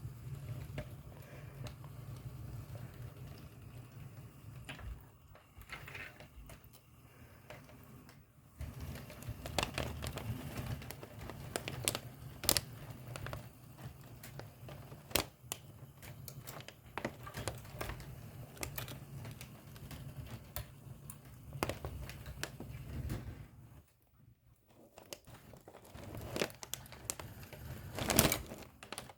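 HO scale model train running: a steady low hum from the running gear, with many irregular sharp clicks from the wheels on the track. The sound drops away briefly about three-quarters of the way in.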